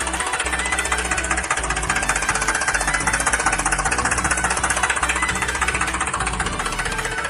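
A small engine running steadily with a fast, even knocking chug.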